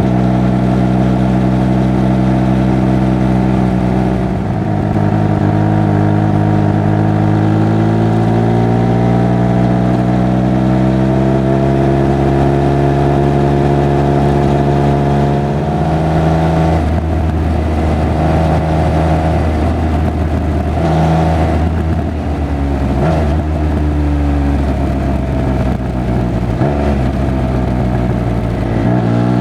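Triumph Speed Triple 1200 RR's three-cylinder engine and exhaust under way. Its pitch climbs steadily for several seconds under acceleration, then drops suddenly with a gear change about halfway. It runs lower and more unevenly after that, then rises again near the end.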